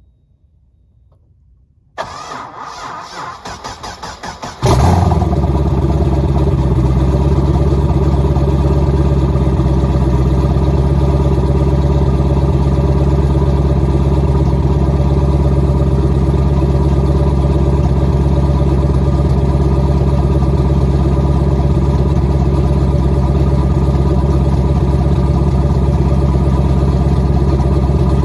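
Cold start of a twin-turbo LS2 V8 with a big aftermarket cam: the starter cranks for about two and a half seconds, then the engine catches and settles into a loud, steady idle with a cam chop.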